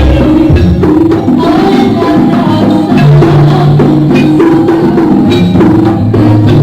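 Live jaranan music from an East Javanese gamelan-style ensemble: drum strokes over repeating short notes on tuned percussion, with longer low tones underneath.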